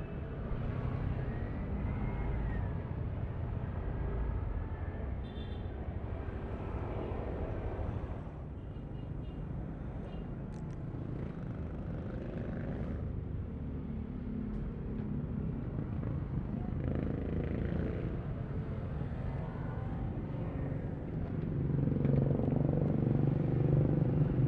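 Yamaha Aerox V3 scooter's single-cylinder engine running under way, heard from the rider's seat with wind and road noise, its pitch shifting as the throttle changes. It grows louder near the end.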